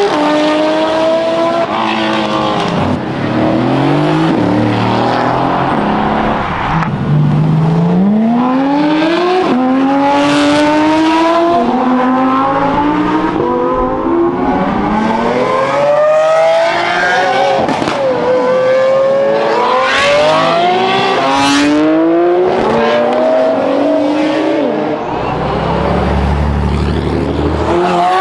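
Supercars accelerating hard past one after another, each engine note climbing through the revs and dropping back at each upshift, the notes overlapping. Near the end a deep low drone comes in under them.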